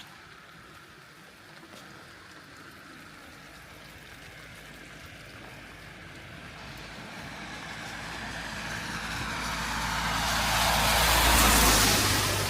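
A road vehicle approaching and passing close by on a wet road: the hiss of its tyres and a low engine rumble grow louder over several seconds to a peak near the end, then start to fade.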